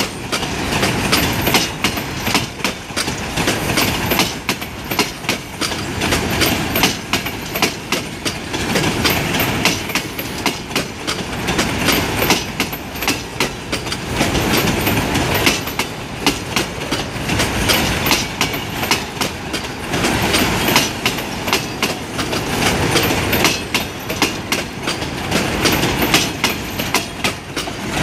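Freight train boxcars rolling past close by: a steady rumble with rapid, continuous clicking and clatter of steel wheels over the rail joints.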